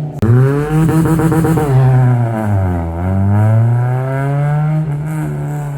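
A car engine revving loudly: its note holds high, sinks to a low point about three seconds in, then climbs again and holds, with a brief break just after the start.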